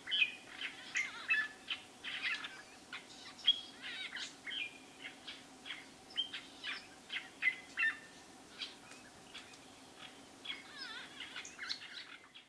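Several birds calling together in a busy run of short chirps, whistles and trills that overlap and never pause for long.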